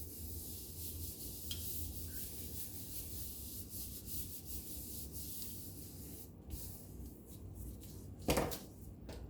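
Paper being rubbed and handled as glued cut-out pieces are pressed down, a soft continuous scratchy rubbing, with one brief louder rustle about eight seconds in.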